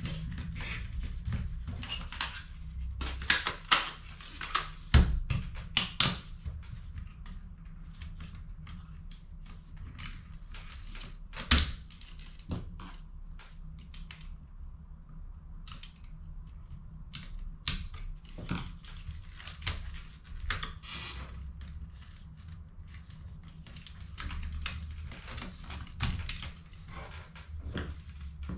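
Irregular clicks, taps and knocks of plastic laser toner cartridge parts being handled and worked on during refilling, with a few sharper knocks around five and twelve seconds in. A low steady hum runs underneath.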